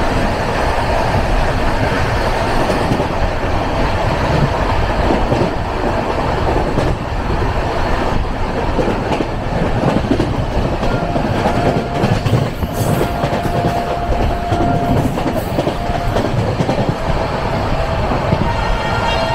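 Passenger train running at speed, heard from inside a carriage: a steady loud rumble and rattle of the wheels on the track, with irregular clicks over the rail joints.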